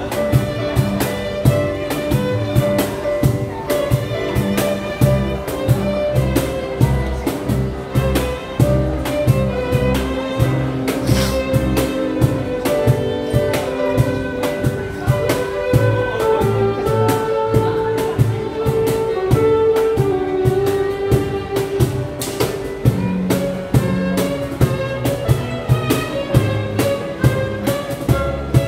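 Live fusion ensemble playing a pop cover: a sustained bowed-string melody over a steady beat.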